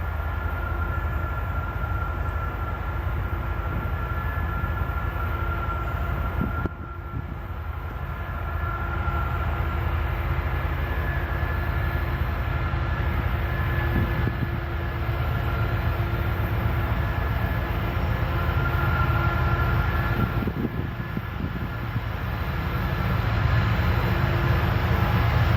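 CN train rolling past: a steady rumble of wheels on rail with a faint high ringing tone over it, dipping briefly about seven seconds in and growing a little louder toward the end.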